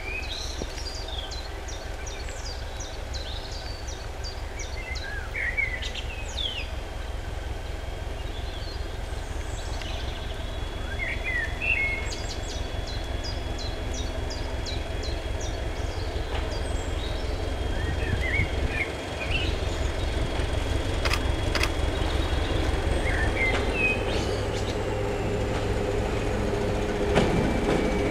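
Birds singing while a train led by a Class 73 electro-diesel locomotive approaches, its engine a steady low rumble that slowly grows louder. A thin high whine holds through much of the middle and drops in pitch near the end.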